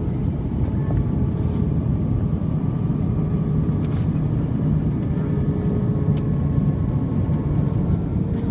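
Steady low rumble inside an Airbus A320's cabin in descent: engine and airflow noise, with faint steady tones above it and a brief click about four seconds in.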